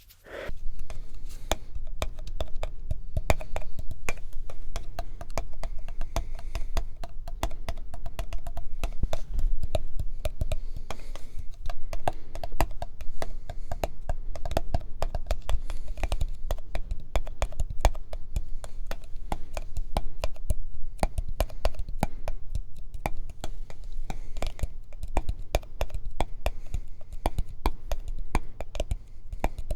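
Fast, dense tapping with fingertips and nails on hard objects, layered into many clicks a second, over a steady low hum.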